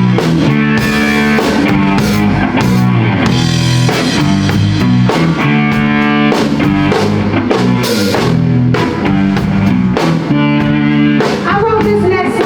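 Blues-rock band playing live: electric guitar over a drum kit keeping a steady beat, in an instrumental passage without singing.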